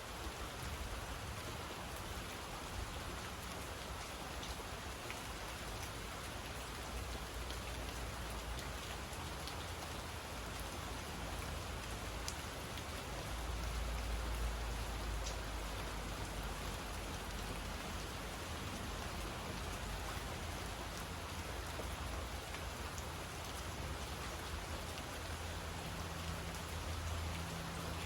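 Steady rain falling, with scattered individual drops striking close by. A low rumble runs underneath and swells about halfway through.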